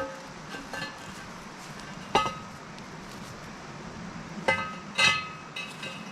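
Rocks knocking against a steel pipe fire ring as they are set under it. Each knock rings briefly like struck metal: one at the start, another about two seconds in and two close together near the end, with a few lighter clinks between.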